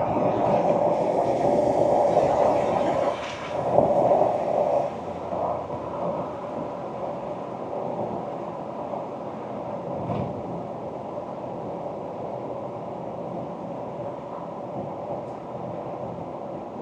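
Ford Ranger Wildtrak pickup on the move: a steady rumble of engine and tyres on the road. It is louder over the first five seconds, with a brief peak about four seconds in, then settles to an even drone.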